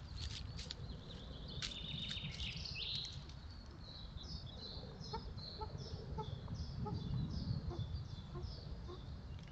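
Birds calling: a run of short high notes repeated about twice a second through the second half, over a steady low rumble. A few sharp clicks in the first two seconds.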